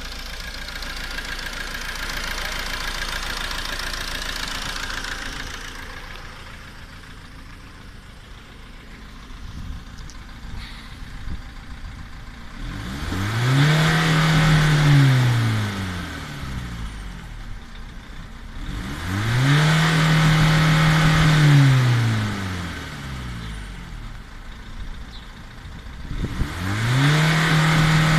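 Ford Focus C-Max's 1.8 turbo-diesel engine idling, then revved three times. Each time it is held high for a few seconds and let fall back to idle, as part of an oxyhydrogen (HHO) carbon clean. A hiss sits over the idle for the first six seconds.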